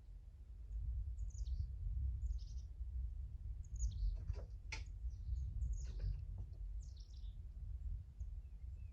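Small birds chirping intermittently in short, high, falling calls, over a steady low rumble, with a few sharp knocks about four to six seconds in.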